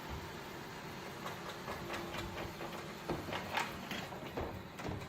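Roomba robot vacuum running with a steady motor hum, and a string of irregular clicks and knocks from about a second in.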